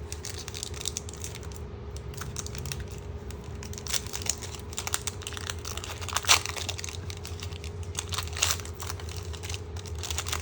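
Foil booster-pack wrapper crinkling and tearing in the hands as a trading-card pack is handled and opened, in irregular crackles with a sharper one about six seconds in. A steady low hum runs underneath.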